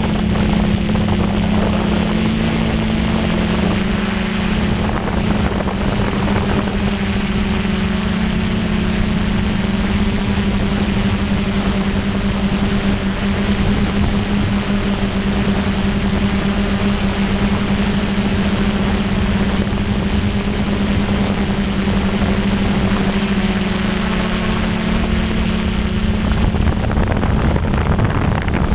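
DJI F550 hexacopter's brushless motors and propellers humming steadily in flight, the pitch wavering slightly, with wind noise on the microphone. The hum drops away near the end.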